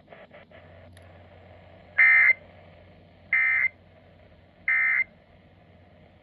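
Weather radio receiver playing three short, identical buzzy data bursts about a second and a half apart. These are the NOAA Weather Radio SAME end-of-message code that closes the severe thunderstorm warning broadcast.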